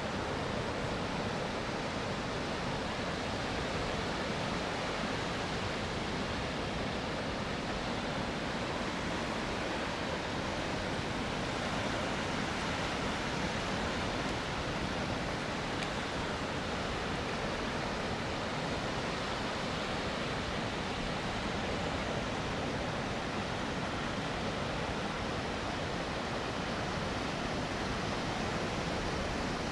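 Ocean surf on a sandy Gulf Coast beach: a steady, even rush of breaking waves with no separate swells standing out.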